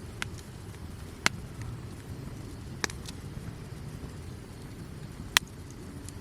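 Wood campfire crackling: a few sharp, irregular pops over a steady low rumble, the loudest pop about five seconds in.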